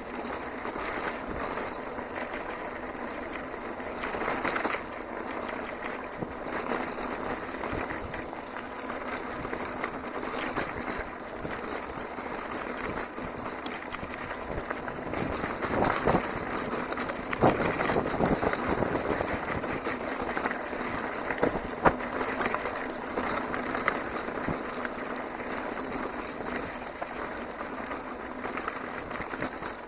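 Steady rolling and rattling noise of a bicycle ridden over a dirt trail, with a couple of sharp knocks from the bumps.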